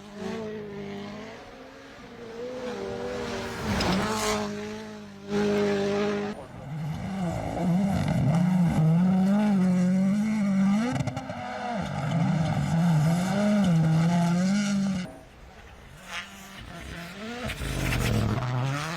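WRC Rally1 car's turbocharged 1.6-litre four-cylinder engine at full stage speed, its pitch rising and falling again and again as the driver works the throttle and gears.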